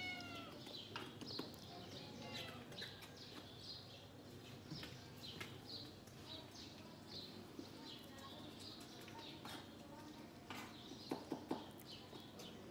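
Faint small-bird chirps, short and high, repeating again and again, with a few sharp taps or clicks near the end.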